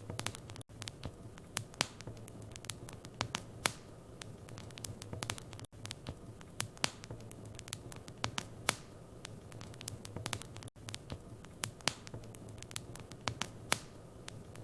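Wood fire in a fireplace crackling: irregular sharp pops and snaps over a steady low hum. The sound cuts out for an instant about every five seconds.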